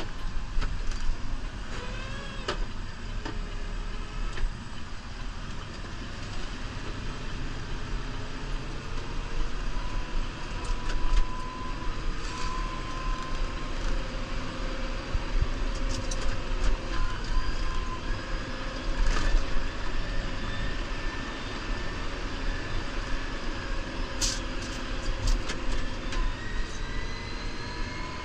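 New Holland Powerstar 75 tractor's diesel engine running steadily, its pitch drifting up and down as it works, with a few sharp knocks scattered through.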